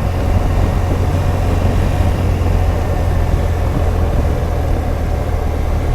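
BMW R1200GS Adventure's boxer-twin engine running steadily under way at an even speed, a constant low drone with no revving.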